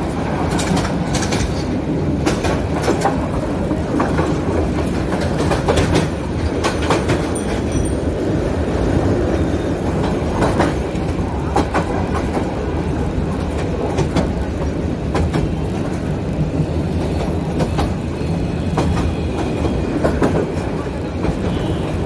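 Train running on the rails: a steady rumble with irregular sharp clicks of the wheels over rail joints.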